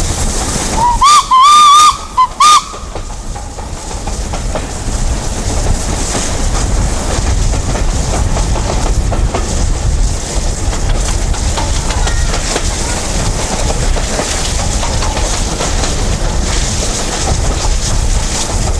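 Steam locomotive whistle blowing about a second in: one long, wavering blast and then two short toots. After that the engine is heard working up a climb, with its exhaust beats and the wheels on the rails running steadily. The locomotive is LNER B1 4-6-0 No. 61034 Chiru.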